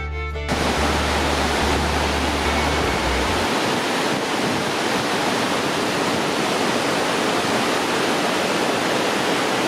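Steady rush of a large waterfall, cutting in abruptly about half a second in as background fiddle music stops.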